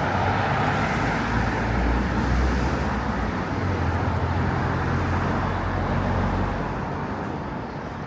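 Steady road traffic noise from passing cars, with a low rumble, easing off a little near the end.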